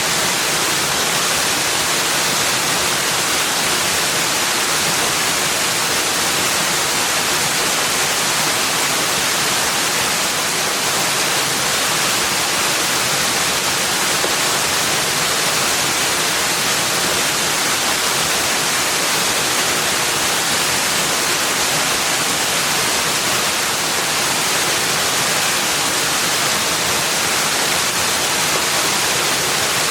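Steady rushing water, a loud, even hiss that does not change.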